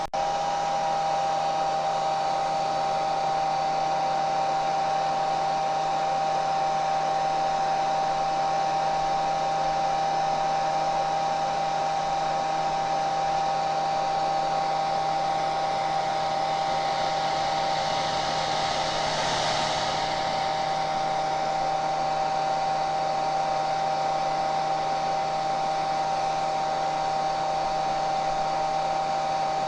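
Hair dryer running steadily: a rush of blown air with a steady whine from its fan motor. It breaks off for an instant right at the start, and the airy hiss swells briefly about two-thirds of the way through.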